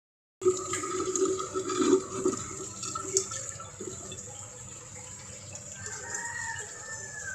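Water running and splashing from a Kangen water ionizer machine, with a wavering tone in the first few seconds over a steady hiss.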